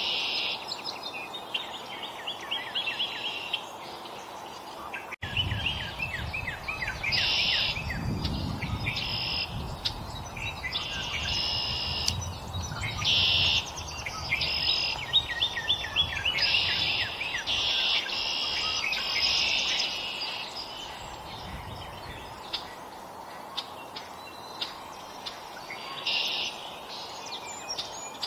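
Small songbirds at a feeder calling and chirping: many short chirps and quick runs of repeated notes. A low rumble runs under them for much of the middle.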